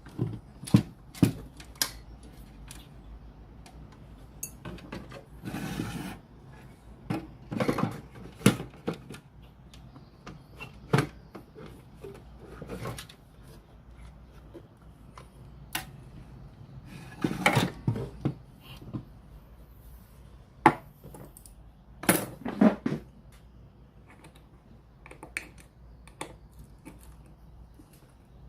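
Irregular clicks, clinks and knocks of tools and small hard parts being handled and set down, coming in scattered bursts with short clattering runs.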